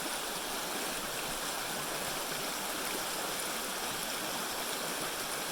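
Creek water rushing and babbling steadily.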